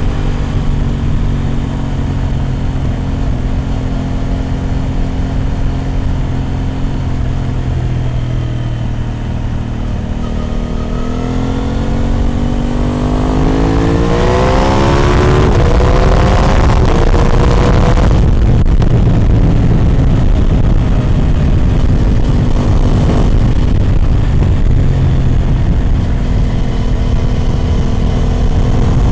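Aprilia RS 660 Extrema's parallel-twin engine through an SC Project exhaust, running at steady revs, then accelerating with a rising pitch from about eleven seconds in. After about eighteen seconds a steady, even rush covers the engine note as the bike holds its speed.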